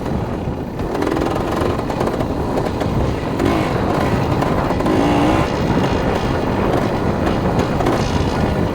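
Dirt bike engine running as the bike is ridden, its pitch wavering up and down with the throttle.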